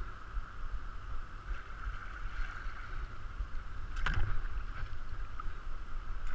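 Steady rush of river water from a kayak on the water, with a low rumble underneath and a single sharp knock about four seconds in.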